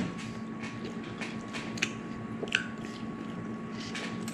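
Someone biting into and chewing a breaded chicken tender, heard as faint, scattered soft crunches and mouth clicks close to the microphone, over a steady low hum.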